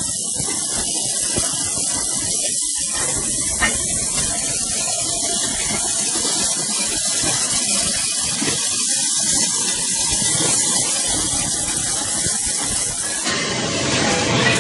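A steady, loud hiss like air or spray, which turns into a fuller, louder noise about 13 seconds in.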